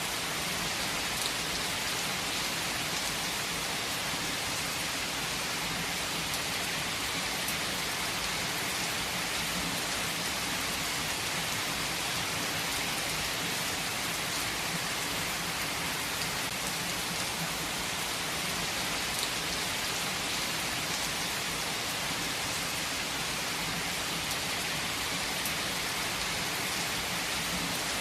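Heavy rain falling steadily on a surface, an even hiss with the occasional louder drop.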